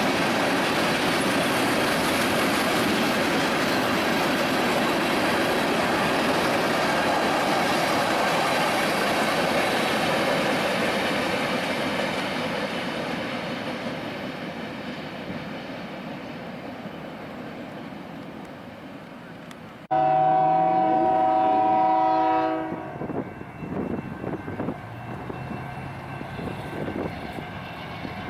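A passing train's steady rumble that slowly fades away; then, after an abrupt cut about twenty seconds in, a locomotive air horn sounds one chord of several tones for about two and a half seconds, followed by quieter train noise.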